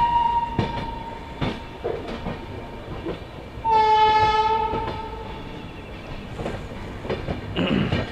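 Train horn sounding one loud blast about three and a half seconds in, lasting over a second, with the fading tail of an earlier horn note at the start. Under it, clickety-clack of train wheels over rail joints.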